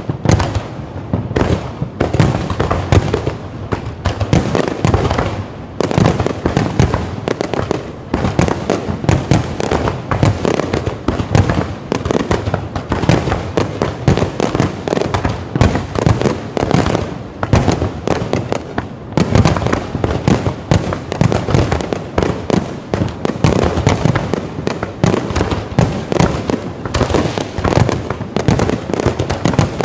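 Aerial fireworks display in a dense barrage: shells bursting one on another, many bangs a second without a pause.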